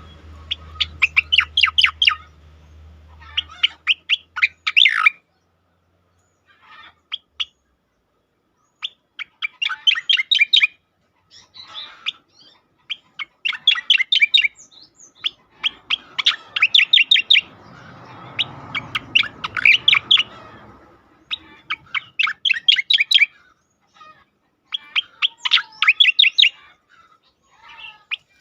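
Striated grassbird (cica koreng) singing in bursts of rapid, repeated trilled notes, each phrase a second or two long with short pauses between. A faint low hum runs under the first few seconds.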